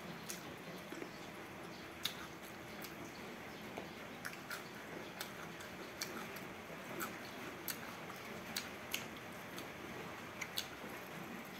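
Chewing close to the microphone: irregular wet smacking clicks from the mouth, several a second at times, as rice, fish and boiled pumpkin are eaten, over a steady faint hiss.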